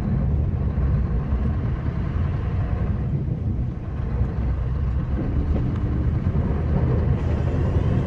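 Scania R560 plow truck's V8 diesel running under load while plowing snow, a steady low rumble with no change through the stretch.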